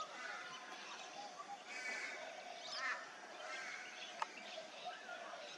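Several birds calling and chirping, short overlapping calls, some rising and falling in pitch, with one sharp click about four seconds in.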